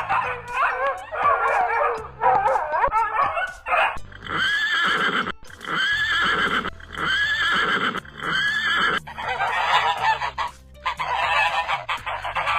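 A series of animal calls: wavering cries for the first few seconds, then four arched calls about a second apart, then more wavering cries near the end.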